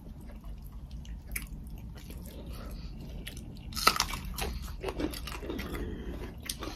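Close-up eating sounds: chewing and crunching on a mouthful of rice and chicken curry eaten by hand, with scattered small crackles and one sharper crunch about four seconds in.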